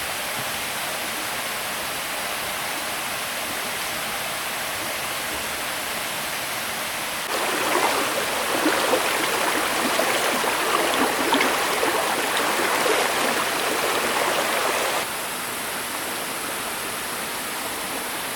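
Flowing stream water rushing steadily. About seven seconds in it turns abruptly louder and more splashy, and it drops back just as suddenly about eight seconds later.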